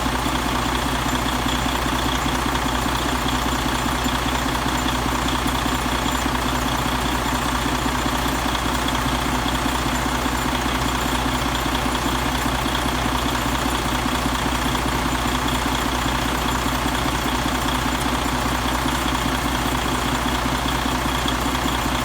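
Detroit DD15 inline-six diesel engine idling steadily.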